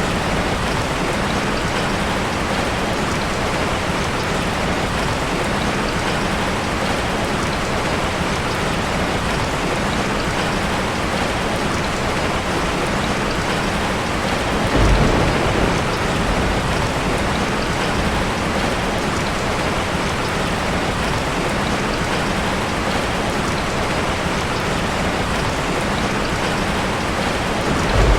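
Steady, heavy rain falling on a surface, an even hiss of drops. About halfway through a brief low rumble swells up for about a second, and another comes right at the end.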